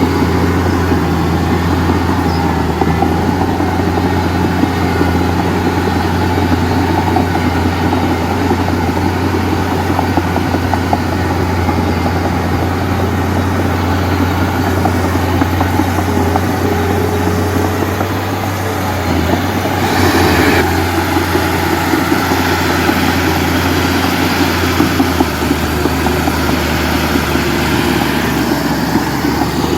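Heavy diesel engine of a bulldozer or garbage truck running steadily with a deep hum. About twenty seconds in there is a short noisy burst.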